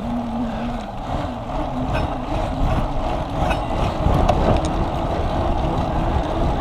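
Wind buffeting the microphone of a camera on a moving bicycle, a steady low rumble of riding noise with a faint steady hum.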